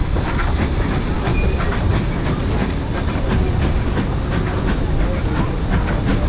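Narrow-gauge railroad cars rolling along the track: a steady rumble with the clickety-clack of wheels over the rail joints.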